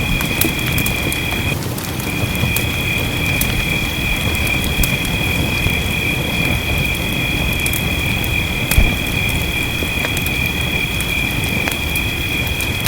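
Wood fire crackling with many small sharp pops over a steady hiss of rain. A steady high-pitched whine runs underneath and drops out for a moment about two seconds in. One low thump comes near the end.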